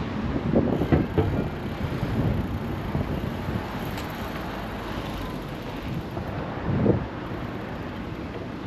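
Wind buffeting an action camera's microphone on a moving bicycle, over a steady rush of street noise. Louder low gusts come about a second in and again near seven seconds, with one short click around four seconds.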